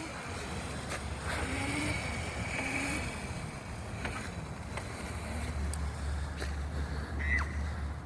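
Razor MX350 electric dirt bike running, a faint motor whine that rises and falls as it rides away. A low rumble builds in the second half, and there is a brief high falling tone near the end.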